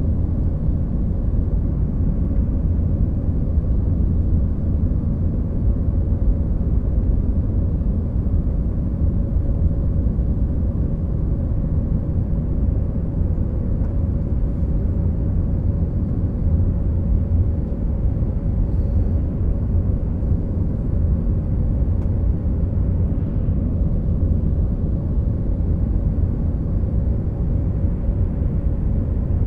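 Airliner cabin noise in flight: a steady low rumble of jet engines and airflow, with a faint constant hum on top.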